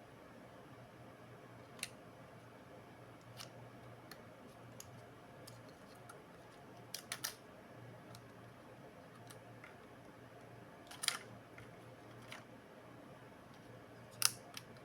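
Small sharp clicks and taps of hand tools against laptop parts, a dozen or so at irregular intervals, with a quick cluster of three about seven seconds in and the loudest near the end, over a low steady hum.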